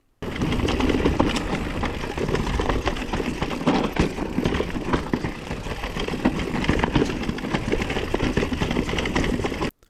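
Electric mountain bike with a Bosch Performance CX motor descending a rocky trail without pedalling: tyres rumbling over rock with a constant rattle and many small clicks and knocks, the chattering noise the Bosch motor is known for when coasting, here at a modest level.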